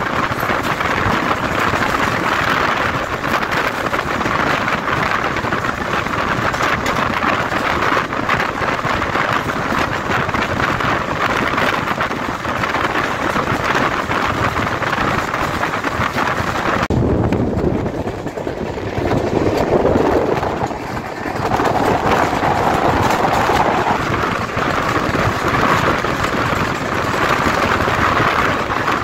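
Passenger train running at speed, heard from on board: a steady rush of wind with wheel-and-rail noise. About seventeen seconds in, the sound turns suddenly duller and lower for a few seconds before the brighter rush comes back.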